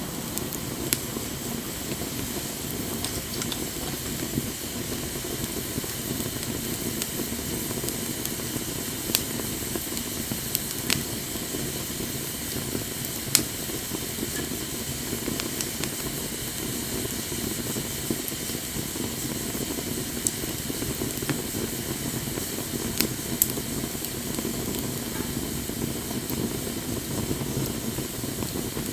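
Wood fire burning with a steady rushing hiss, broken by several sharp crackles and pops spread through.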